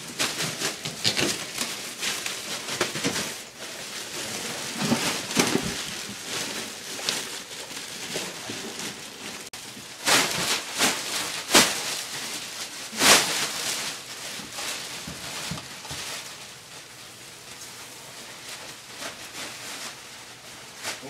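Irregular scraping and crackling of flooring demolition debris being handled, with sharp knocks about ten, eleven and a half and thirteen seconds in.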